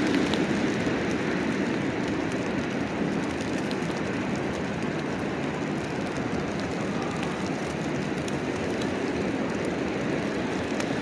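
Steady city street noise, a low, even rumble of traffic, a little louder at the start.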